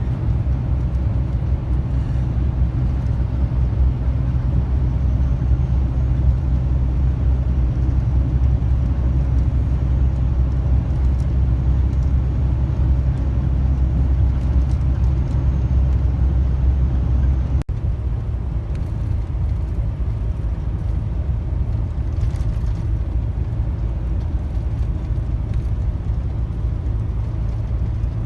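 Lorry driving on the road: a steady low engine and road rumble, with a brief cut about 17 seconds in after which the rumble is lighter.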